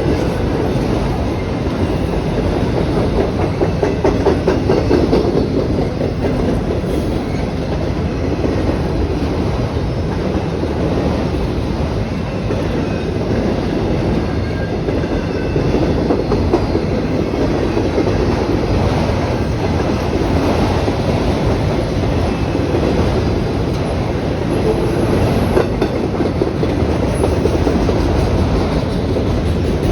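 Train cars rolling past, wheels clicking over the rail joints in a steady, loud clickety-clack.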